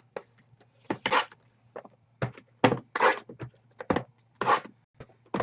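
Scattered short knocks and rustles, about one every half second to a second, over a faint steady low hum.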